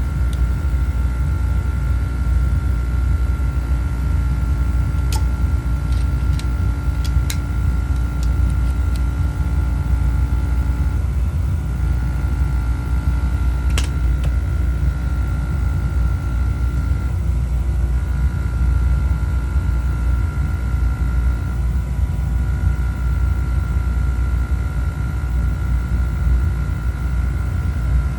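Oil burner of a home heating boiler running: a steady, loud rumble of flame and blower with a steady high whine over it, and a few sharp clicks.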